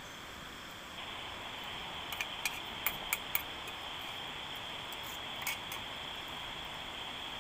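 Steady high-pitched insect buzz from crickets or cicadas, stepping up in loudness about a second in, with a few sharp clicks in the middle and one more near the end.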